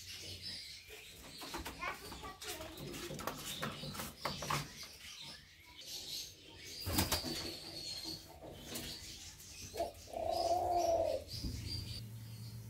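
Doves in a cage: one long, arched coo about ten seconds in, the loudest sound, against scattered scratching, rustling and wing-flaps. A sharp knock comes about seven seconds in, with faint high chirps just after it.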